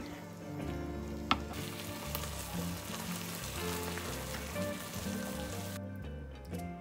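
Food sizzling as it fries in a pan. The sizzle starts about a second and a half in and cuts off abruptly near the end, over background music.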